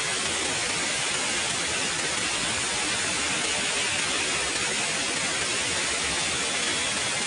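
Waterfall running: a steady, even rush of falling water, heaviest in the hiss and unchanging throughout.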